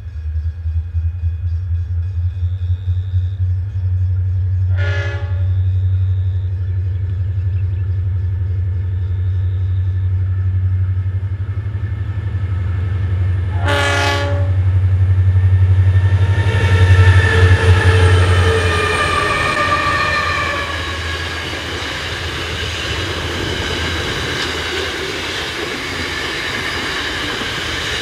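Diesel-electric freight locomotives, two of them new GE-design UGL Rail C44aci units, working as they approach and pass, with a deep steady engine drone. The horn sounds two short blasts, about five seconds in and again at about fourteen seconds. After that the container wagons roll by with rumbling, clatter and squealing wheels.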